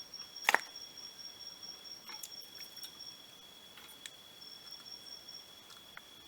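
Insects calling steadily in the forest, two high, unbroken tones. A single sharp knock about half a second in stands out above them, followed by a few faint clicks.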